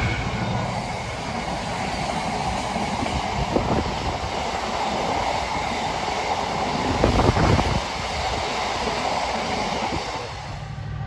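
A long rake of covered hopper freight wagons rolling past at speed: a steady rumble and rattle of wheels on rail, with sharper clacks over rail joints about three and a half seconds in and again around seven seconds, easing off near the end.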